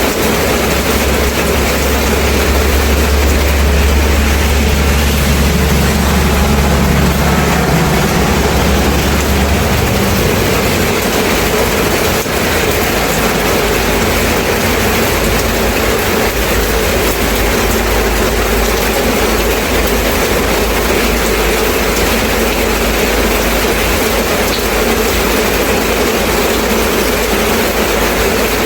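Steady heavy rain, with a deep low rumble under it for the first ten seconds or so that then fades to a fainter low hum.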